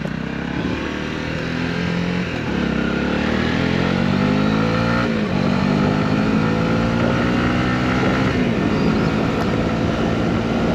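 Motorcycle engine accelerating up through the gears. Its pitch climbs, drops at an upshift about five seconds in, climbs again, drops at a second shift near eight and a half seconds, then holds steady at cruising speed.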